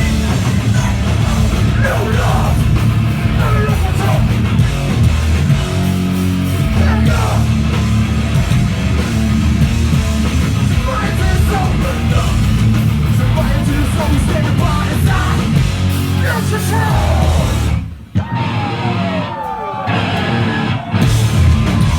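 Hardcore band playing live, with heavy distorted guitars, bass, drums and yelled vocals. About 18 seconds in the band cuts out sharply, and a falling guitar glide sounds before the full band comes back.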